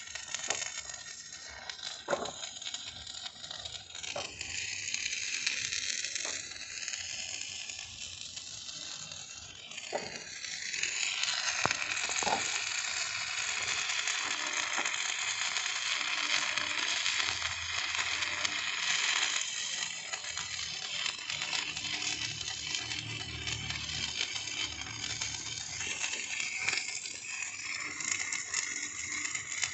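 Electric arc welding crackling and sizzling steadily on steel, growing louder about ten seconds in, with a few sharp metallic knocks in the first half.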